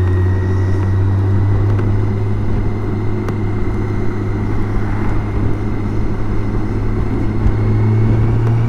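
BMW K1600 GTL motorcycle's inline-six engine running steadily at cruise, with a faint high whine over it; the engine note rises slightly near the end.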